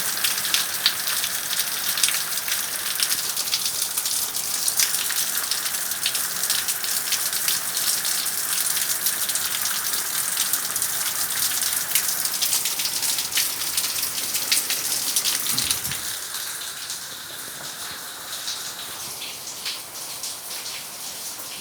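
Heavy rain with water spilling over the rim of a roof gutter that is blocked by a clogged downpipe bend, splashing and pattering with many sharp drop impacts. About three quarters of the way through comes a brief low thump, and after it the splashing is quieter.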